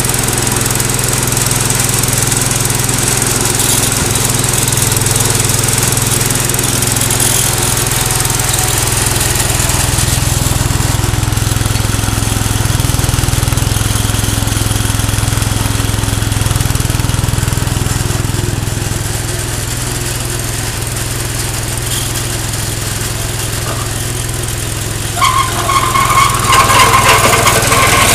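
Cub Cadet 149 garden tractor's single-cylinder Kohler engine running steadily under way while plowing snow. About three seconds before the end a louder, high-pitched grating noise joins it.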